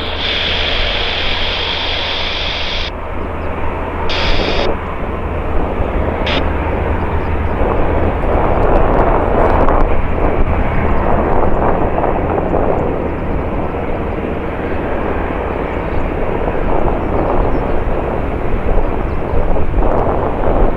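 Jet airliner engines on the runway, a continuous rumble that swells to its loudest about eight to twelve seconds in. A high whine is also heard and cuts off about three seconds in.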